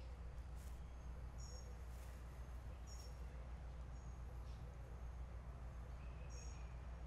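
Faint, short high-pitched bird chirps in paired notes, recurring every second or two, over a low steady rumble.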